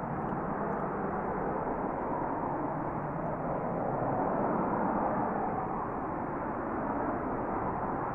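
Jet aircraft engine running at a distance, a steady rushing noise that swells a little about halfway through.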